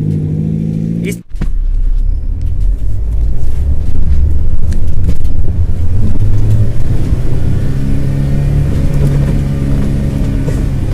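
Off-road vehicle's engine running as it drives slowly through soft mud, heard from on board, under a heavy low rumble. Its note holds steady from about eight seconds in.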